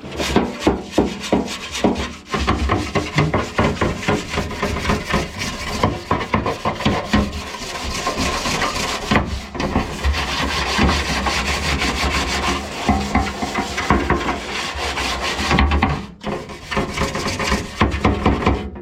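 Rapid back-and-forth scrubbing of a boat hull with a brush, a continuous rasping scrape with short pauses about two seconds in and near the end.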